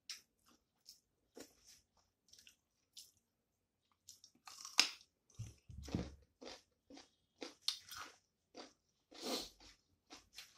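A person chewing a mouthful of rice and greens eaten by hand. The mouth sounds are short and irregular, heaviest about halfway through and again near the end.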